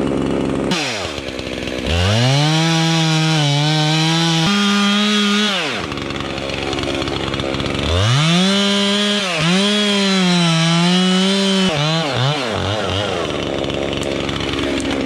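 Chainsaw revved to full throttle and held there while cutting into a cherry tree trunk, twice for about four seconds each. The engine pitch wavers under load during each cut and drops back to idle in between and near the end.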